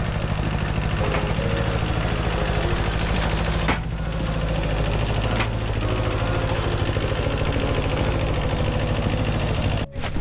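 An engine running steadily with a fast, even pulsing, under faint background music.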